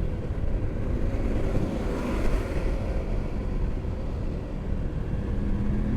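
Motorcycle riding along a road, its engine and road noise under wind rushing over the microphone; a steadier engine note comes up near the end.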